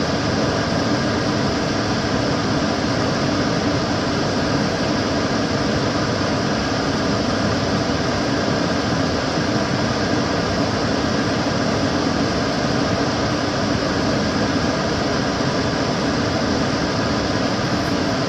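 Kitchen cooker hood extractor fan running steadily: a constant whoosh of moving air with a low hum.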